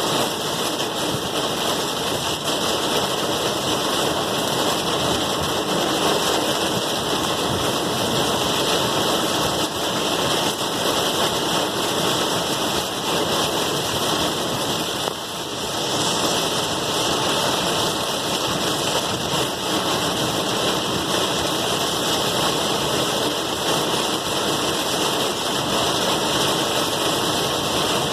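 Steady rain falling, an even hiss of drops that dips briefly about halfway through.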